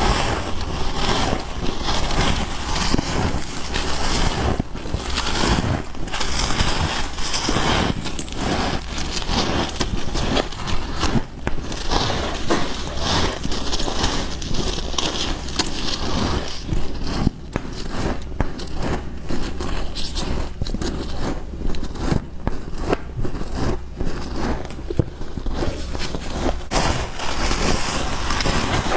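Freezer frost being bitten and chewed, a dense, continuous crunching and crackling.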